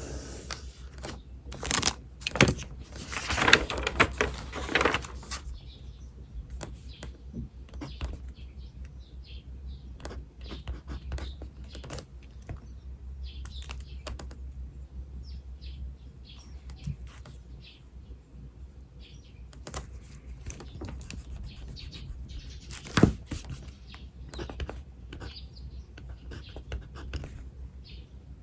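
Pen writing on paper, a run of small scratches and taps, with birds chirping in the background. A louder burst of scraping and clicks comes between about two and five seconds in, and a single sharp knock about 23 seconds in.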